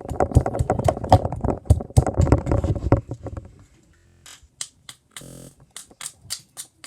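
A knife shaving and scraping at a wooden stick: a dense run of quick scrapes and clicks for about three seconds, then scattered single clicks and one short scrape.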